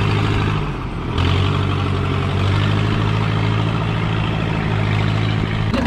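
A large vehicle engine running steadily, with a low hum; its sound dips briefly just under a second in and then picks back up.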